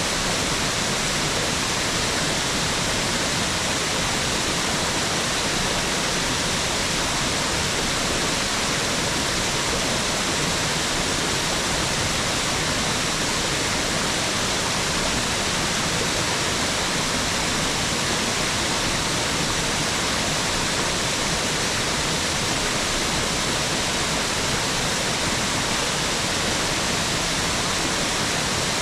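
A mountain waterfall's steady rush of falling water, an even hiss with no breaks.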